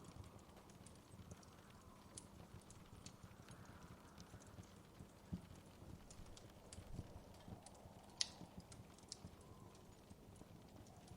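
Faint wood fire crackling, with small irregular pops over a low steady hiss and one sharper pop about eight seconds in.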